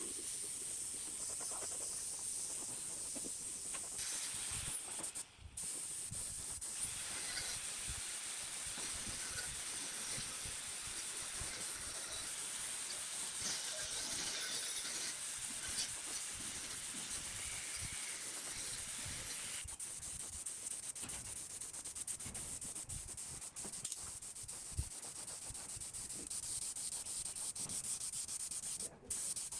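Steady abrasive rubbing and hiss, like a metal part being sanded during rust removal. It breaks off abruptly twice, about five seconds in and near the end.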